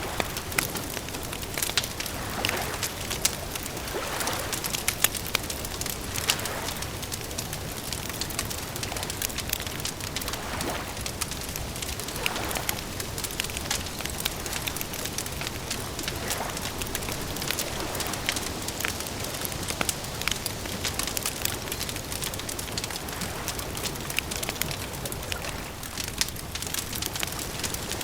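Wood campfire crackling: many small sharp pops over a steady hiss, with soft swells of sound every few seconds.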